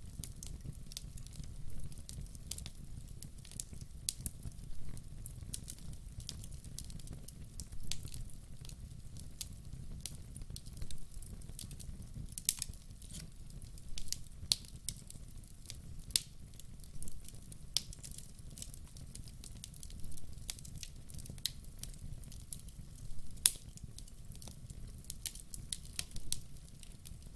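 Wood fire burning in a fireplace: a steady low rumble of the flames under frequent, irregular sharp crackles and pops from the burning logs.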